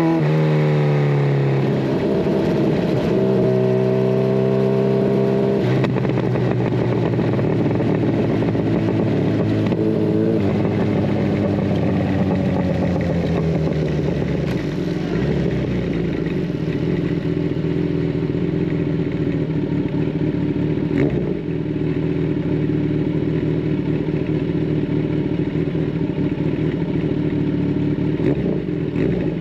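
Kawasaki Ninja 1000SX inline-four running through a decat and Scorpion Red Power exhaust while ridden. Its note falls at the start, holds for a few seconds, drops again, then settles into steady running at lower revs.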